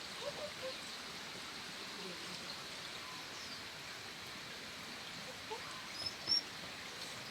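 Steady outdoor background hiss with faint scattered chirps, and two short high bird chirps about six seconds in.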